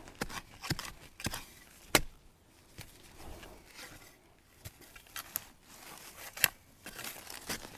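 Scattered sharp snaps and crackles of dry leaf litter and twigs in bamboo undergrowth, about seven distinct ones at uneven intervals, the loudest about two seconds in and again about six and a half seconds in.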